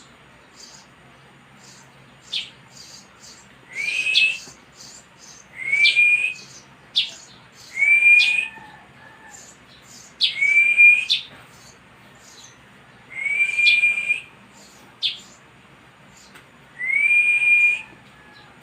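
Six drawn-out whistled notes, each rising and then held for about a second, roughly every two to three seconds. Between them come short sharp chirps from a young Eurasian tree sparrow.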